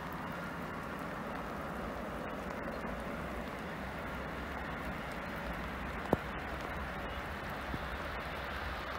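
Steady hiss of rain falling on a wet station platform and tracks, with a single sharp click about six seconds in.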